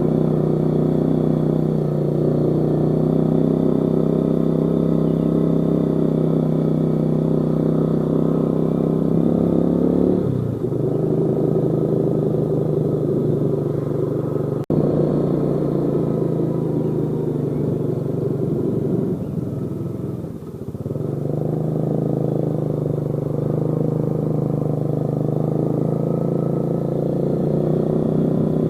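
Yamaha Jupiter Z motorcycle's single-cylinder four-stroke engine running steadily while riding. The engine note dips briefly twice, about ten and twenty seconds in.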